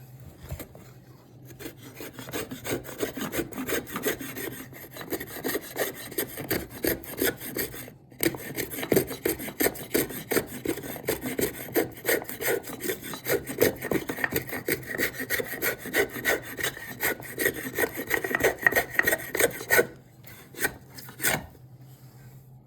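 Cherry wood being worked by hand with a tool drawn in quick, rhythmic back-and-forth strokes, with a brief pause about eight seconds in. The stroking stops near the end, followed by a few single strokes.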